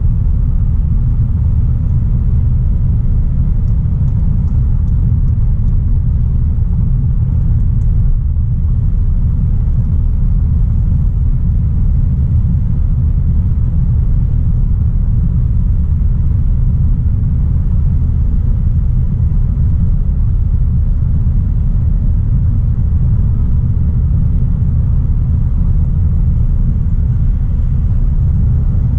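2016 Audi A3 Sportback 1.4 TFSI (turbocharged four-cylinder petrol) driving at a steady pace: an even, deep rumble of engine and road noise with no revving or gear changes.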